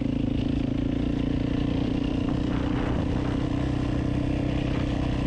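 Motorcycle engine running steadily at cruising speed, holding an even pitch.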